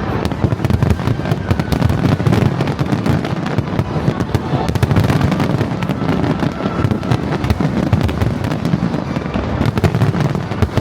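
Fireworks bursting in a dense, continuous barrage of deep booms and rapid crackling, with no pause.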